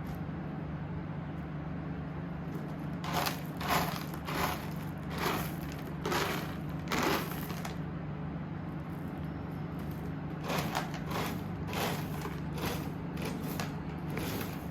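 Cat digging and scratching in freshly cleaned cat litter: two runs of short gritty scraping strokes, one or two a second, over a steady low hum.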